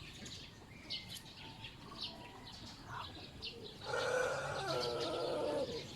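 Small birds chirping in short high notes, then a louder, longer bird call about four seconds in that lasts nearly two seconds and falls slightly at its end.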